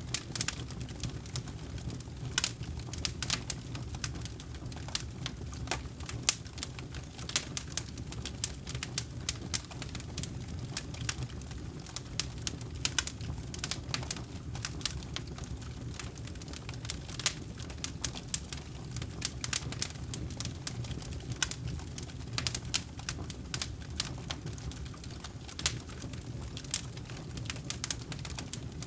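Campfire crackling: burning wood snapping in irregular sharp pops, several a second, over a steady low rumble of the flames.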